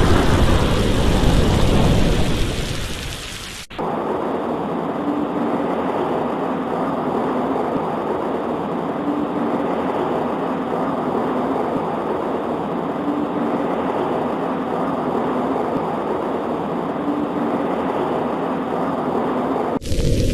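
A loud roll of thunder over rain fades out over the first three or so seconds. Then it cuts abruptly to steady rain on a window pane, and near the end it cuts back to loud rumbling thunder.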